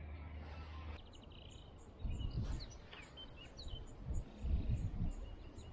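Small birds chirping in short, quick calls, with wind gusting against the microphone from about two seconds in.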